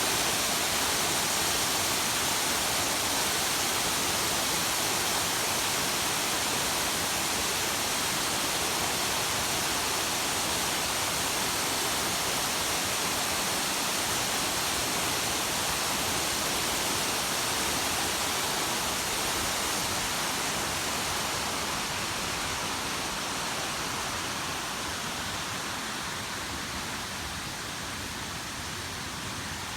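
Waterfall: a steady rush of falling water, growing a little quieter over the last several seconds.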